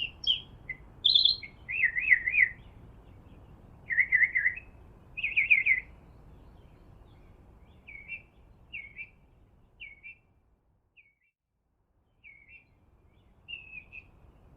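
Songbird singing: loud, quick warbled trills and chirps in the first six seconds, then shorter, softer phrases spaced about a second apart.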